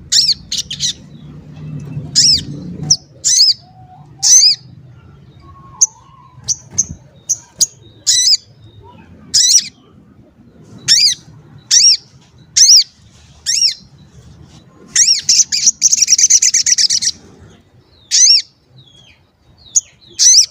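Sogon songbird calling: sharp high 'cuit' chirps, one every second or so, with a rapid chattering trill of about two seconds a little past two-thirds of the way through. It is a bird in full song, the kind of call used as a lure to set other sogon birds calling.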